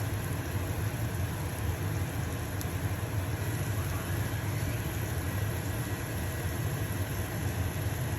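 Stove-top range hood fan running with a steady low hum, under the sizzle of a pancake frying in a pan.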